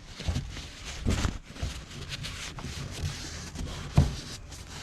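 Light knocks, clicks and rubbing from the rebuilt power steering pump and small parts being handled on a workbench, with one louder thump about four seconds in.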